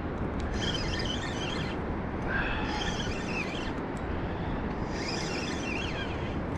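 Steady rushing of flowing river water. Over it come short, higher-pitched wavering sounds, each about a second long, heard three times.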